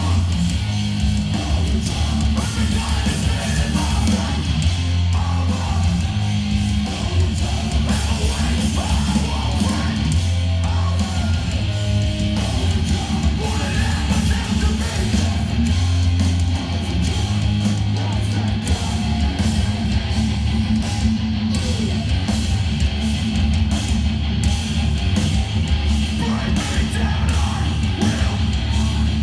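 Hardcore punk band playing live: loud distorted electric guitars, bass and drums in a continuous, dense wall of sound.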